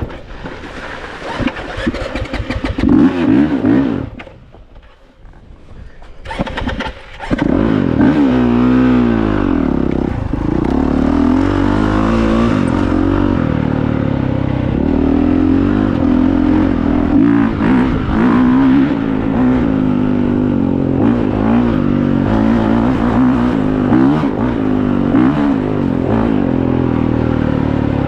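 Honda CRF450R single-cylinder four-stroke dirt bike engine running under changing throttle. It drops away to a low level for a few seconds after about four seconds in, then comes back loud and keeps revving up and down in pitch.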